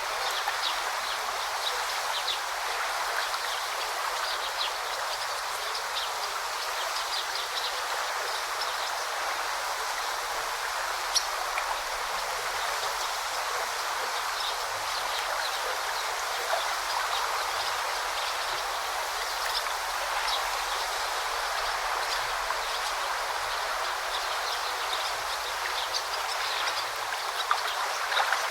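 Forest stream flowing steadily, a continuous rushing babble of water, with scattered short high-pitched ticks over it.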